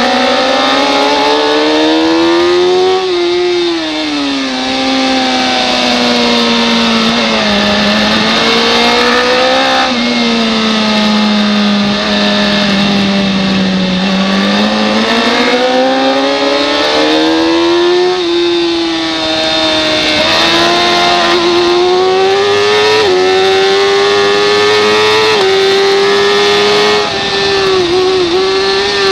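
Superbike racing motorcycle engine at full race pace. The revs climb under acceleration with a few quick small drops as it shifts up, then wind down under braking, over a steady rush of noise.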